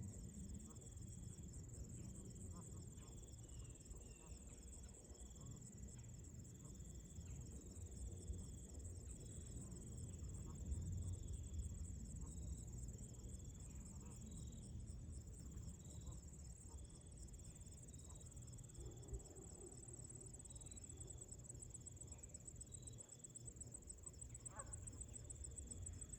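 Steady, high-pitched insect trilling of crickets, over a soft low rumble of wind.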